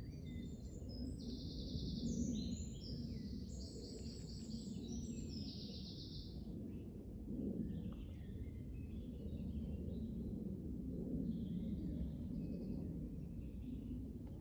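Songbird singing: a loud, varied song with fast trilled phrases for the first six seconds or so, then fainter calls from other birds, over a steady low rumble.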